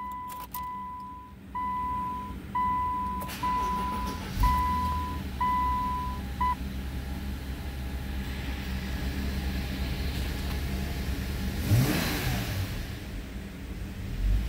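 Subaru Legacy 3.6-litre flat-six starting about four seconds in while a dashboard warning chime beeps about once a second. The chime stops a couple of seconds later and the engine settles to a steady idle, with one short rev near the end.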